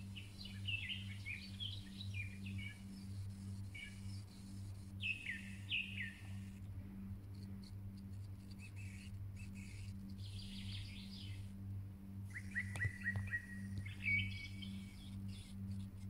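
Small birds chirping and twittering in short, quick phrases, some sliding down in pitch, over a steady low hum.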